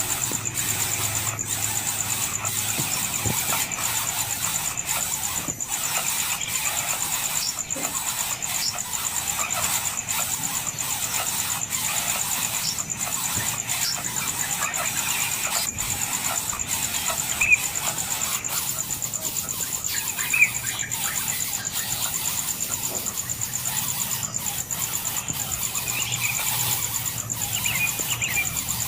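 Outdoor nature ambience: a continuous high, steady insect drone with a few short bird chirps and two sharp clicks partway through.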